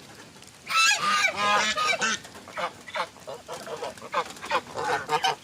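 A group of domestic geese honking loudly, many overlapping calls starting about a second in and going on without a break.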